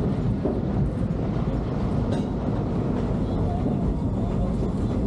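Steam-hauled park train rolling along its track, heard from an open passenger car: a steady rumble of wheels on rails, with a couple of faint clicks.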